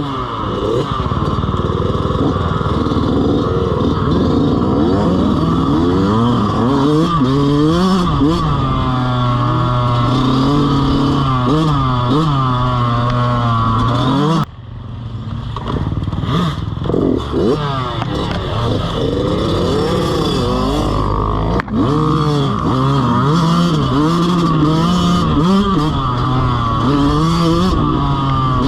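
Dirt bike engine revving up and down, its pitch climbing and dropping again and again as it rides. The sound dips abruptly for a moment about halfway through.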